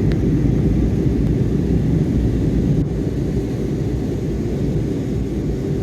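Airliner cabin noise in flight: the steady low roar of the engines and airflow heard from inside the cabin, dropping slightly in level about three seconds in.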